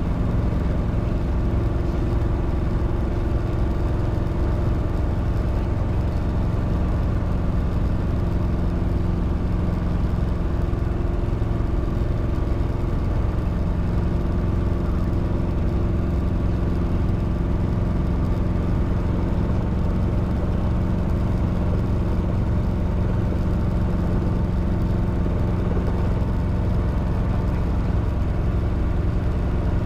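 Robinson R22 helicopter's piston engine and two-bladed rotor running with a steady, unchanging drone and a fast low flutter.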